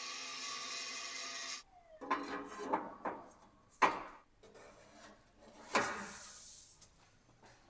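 A steady sound with several held tones cuts off abruptly about one and a half seconds in. Then come separate scraping strokes and knocks of hard materials being worked by hand, with one sharp knock near the middle and a longer hissing scrape later.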